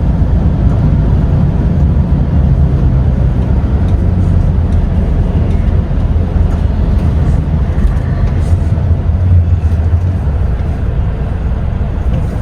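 DAF XF truck driving, a steady low engine drone mixed with road noise.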